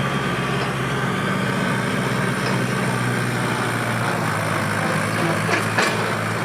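Kubota L5018SP tractor's diesel engine running at a steady speed, with two short sharp knocks near the end.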